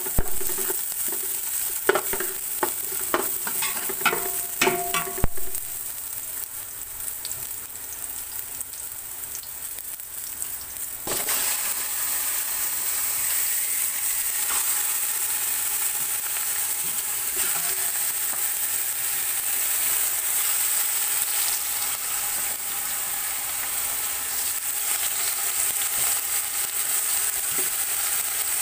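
Chopped onion and garlic frying in oil in an aluminium pot, sizzling while a metal utensil clinks and scrapes against the pot in the first few seconds. About eleven seconds in the sizzle turns louder and stays steady, with chicken pieces in the pot by the end.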